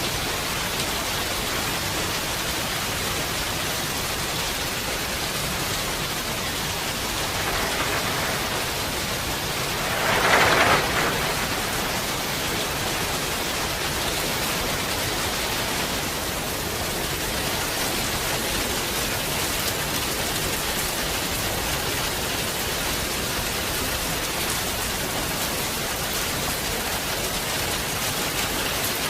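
Heavy rain falling steadily, an even hiss of drops on surfaces. About ten seconds in the rain swells briefly louder for a second or so, after a smaller swell just before it.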